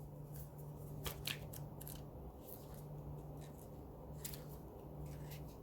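Faint rustling and soft clicks of paper pages being turned in a tarot guidebook, over a low hum.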